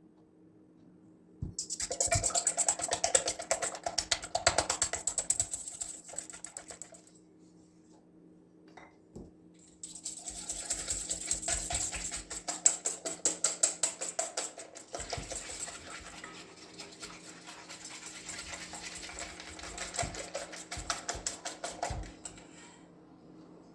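Rapid, fast-repeating clicking strokes in two long runs, with a pause of a few seconds between them.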